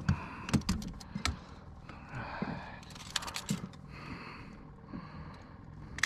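Handling noises while a deeply hooked catfish is unhooked in a kayak: scattered sharp clicks and knocks with rustling in between, as the fish squirms and the hook is worked free.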